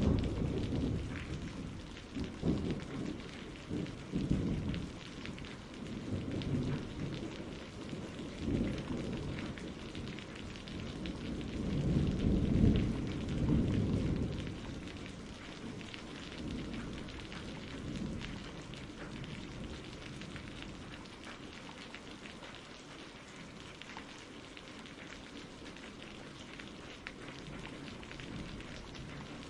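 Steady rain with rolling thunder. The rumbling swells to its loudest around the middle, then dies away, leaving the rain alone.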